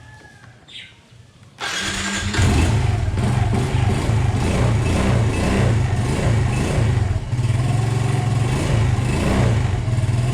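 Suzuki Smash 115's single-cylinder four-stroke engine started on the electric starter about a second and a half in. It catches on one press without choke and then idles steadily.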